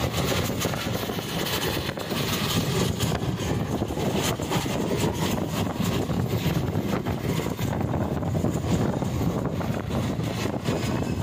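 Steady rumble of a passenger train running at speed, its wheels on the rails giving off irregular clicks and clatter.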